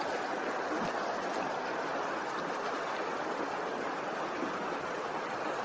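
Recorded running water, a steady, even rush with no breaks.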